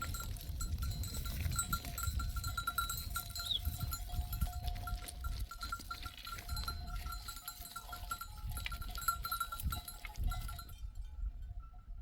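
Bells on a grazing flock of sheep clinking and ringing in an uneven, overlapping patter, over a low noise. The higher clicking drops away near the end.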